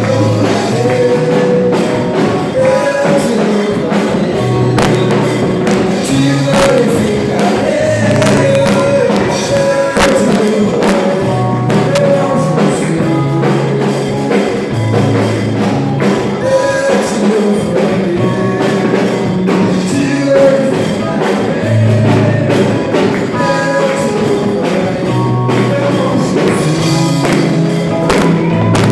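Gospel worship music with singing and a tambourine keeping the beat, played and sung live by a church band.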